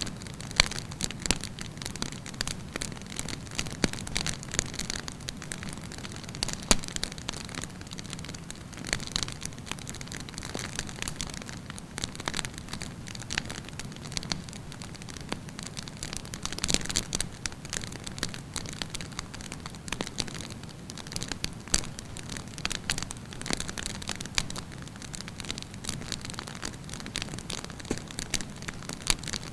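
Wood campfire burning with steady hissing and frequent irregular crackles and pops.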